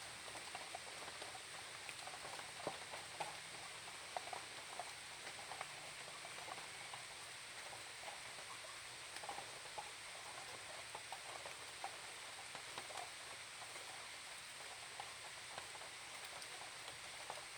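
Light rain falling: a soft steady hiss with scattered drops pattering irregularly on leaves and surfaces.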